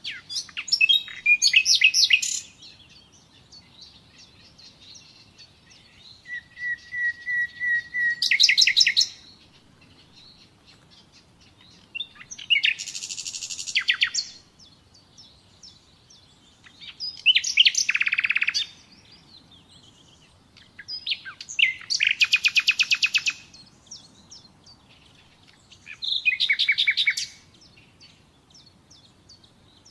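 Common nightingale singing in separate phrases a few seconds apart, six in all, each a fast run of rapidly repeated notes; one phrase opens with a long level whistle before breaking into the fast trill.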